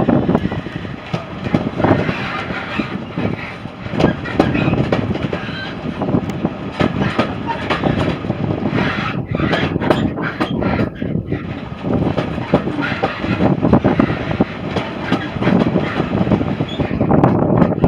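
Heritage railway train running along the track, with irregular clattering knocks of its wheels over the rails.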